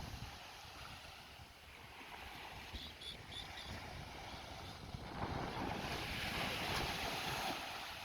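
Surf washing on a beach, with wind buffeting the microphone; a wave rushes in more loudly about five seconds in. A few short, high peeps sound about three seconds in, typical of a shorebird.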